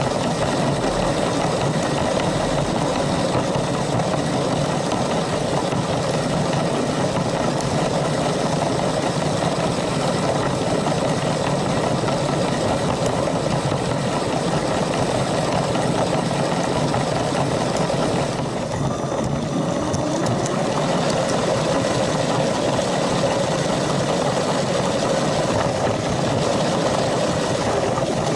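Toy train's electric motor whirring and its wheels rattling along plastic track, heard from on board the moving LEGO train. It runs steadily, with the higher rattle dropping away briefly about two thirds of the way through.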